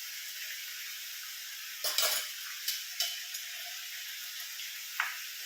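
Chicken sizzling steadily in mustard oil in a pan, with a few sharp clinks of a spoon on metal about two, three and five seconds in, as salt is spooned in.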